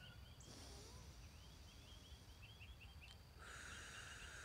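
Near silence with faint background birdsong: a quick run of short chirps in the middle, and a steady high hiss that comes in near the end.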